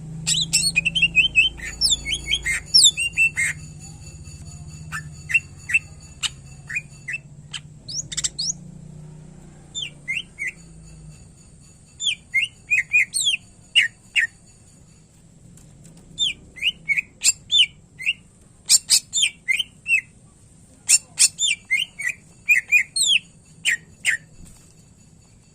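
Cucak ijo (green leafbird) singing in quick bursts of sharp chirps and rapid whistled glides, phrase after phrase with short gaps. A low hum runs under the first half.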